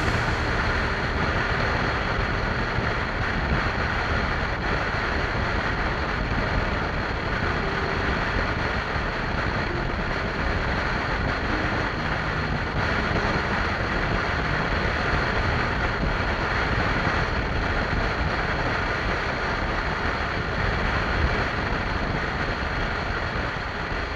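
Wind rushing over the microphone of a moving motorcycle, a steady noisy roar with road and engine noise mixed in and no clear engine note.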